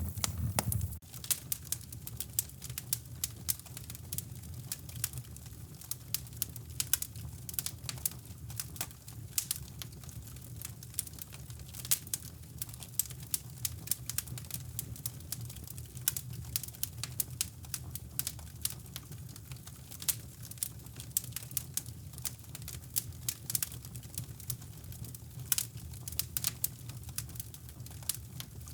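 Fireplace wood fire crackling, with many irregular sharp pops and snaps over a steady low rushing noise.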